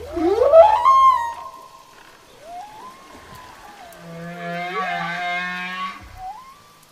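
Whale song recorded underwater: a rising whoop, then long moaning calls that slide up and down in pitch, and a layered, pulsing call in the middle.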